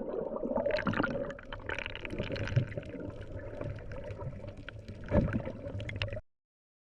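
Sea water gurgling and sloshing, with a louder surge about five seconds in; the sound cuts off suddenly near the end.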